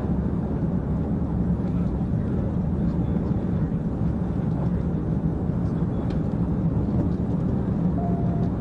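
Police patrol car driving at speed, its engine and tyre noise making a steady low drone with no siren.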